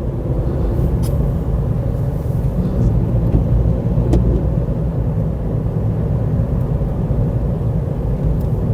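Wind buffeting a handheld microphone outdoors, a loud, unsteady low rumble, with a few faint clicks.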